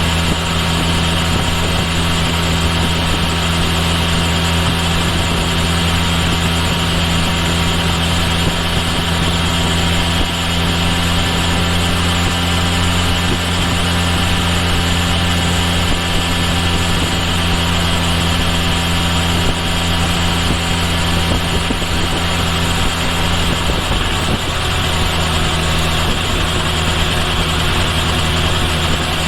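Kawasaki Ninja H2 SX's supercharged 998 cc inline-four running at a steady, even engine speed, picked up from near the bike's right rear turn signal.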